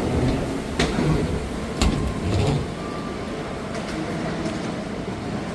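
Steady low rumble of a moving vehicle, with a sharp click about a second in and a louder knock about two seconds in.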